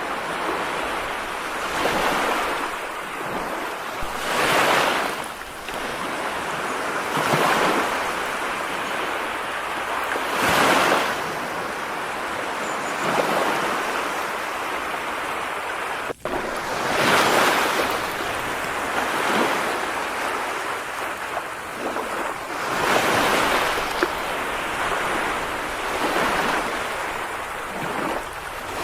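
Continuous rushing water noise that swells and fades every two to four seconds, with a brief dropout about 16 seconds in.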